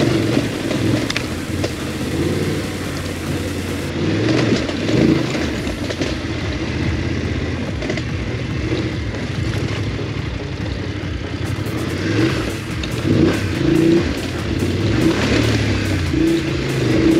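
BMW F850GS parallel-twin engine riding a rough dirt trail, its revs rising and falling again and again as the throttle is worked.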